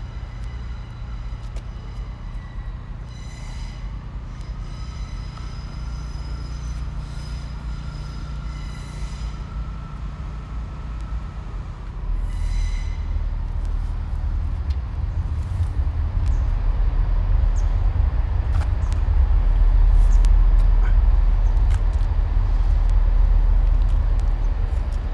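Train rumbling over a railway bridge directly overhead, heard from underneath, with several short high-pitched wheel squeals in the first half. The low rumble grows louder from about halfway through and is loudest a few seconds before the end.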